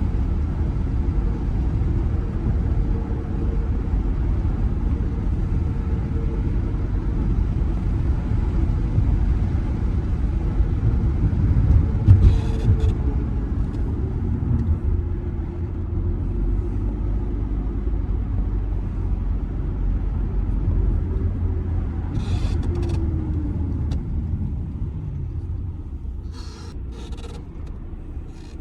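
Audi A6 C6 2.0 TDI four-cylinder diesel with Multitronic transmission heard from inside the cabin while driving: a steady low engine and tyre rumble, with a brief louder bump about twelve seconds in. Later the engine note falls in pitch and the rumble eases as the car slows, with a few light clicks near the end.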